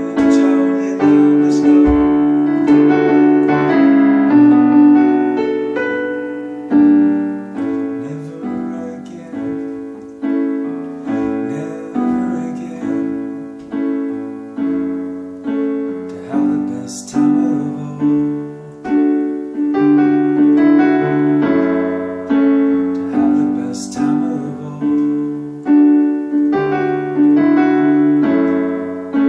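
Solo piano playing a slow instrumental passage, chords struck about once a second or so and left to fade.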